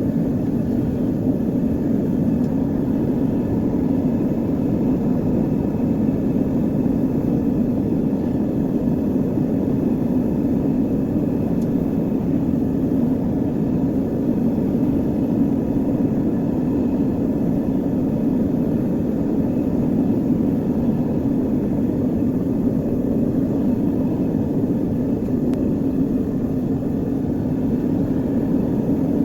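A steady, unchanging roar, heaviest in the low-middle range, with no breaks or changes throughout.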